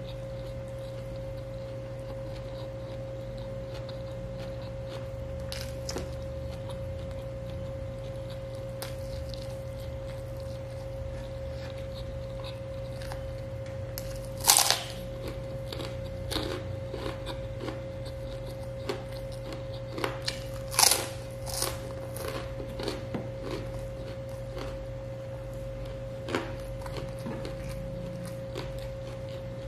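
Mouth sounds of eating grilled chicken and rice by hand: chewing and biting, with a few short sharp smacks or crunches, the loudest about halfway through and again about two-thirds of the way in. A steady low hum runs underneath.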